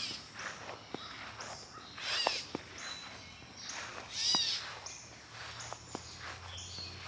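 Footsteps on an outdoor path: a scuffing step about every two seconds, with faint clicks in between.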